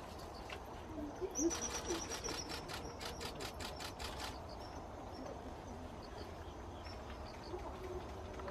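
Wild birds calling: a rapid series of high, sharp notes lasting about three seconds, starting a little over a second in, followed by fainter calls.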